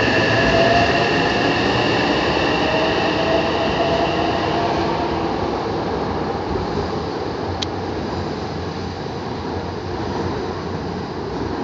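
Electric commuter train moving along a station platform, its running noise carrying a high steady whine that fades out over the first few seconds. Then a lower, steady rumble of trains on the station tracks, with one sharp click about halfway through.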